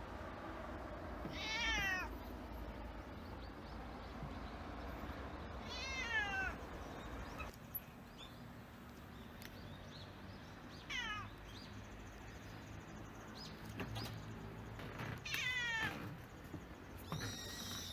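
A very old domestic cat (23 years) meowing repeatedly: about five meows spaced several seconds apart, each sliding down in pitch.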